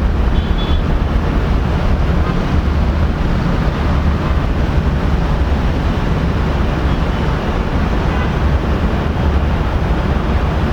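Steady low rumble of airliner engines at the airport, holding at an even level throughout.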